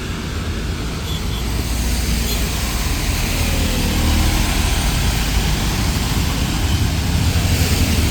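Heavy rain falling: a steady rush of noise with a strong low rumble underneath.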